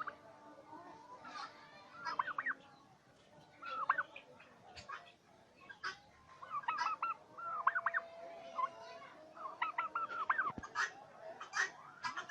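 Domestic turkeys gobbling, several quick warbling gobbles in a row, with short sharp calls from other birds in the flock between them.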